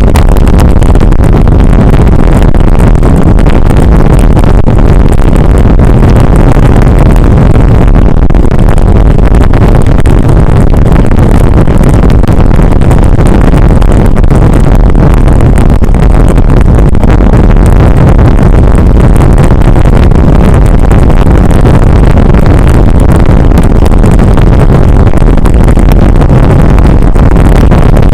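Steady loud wind and road noise from riding a bicycle along a road, the wind buffeting the microphone.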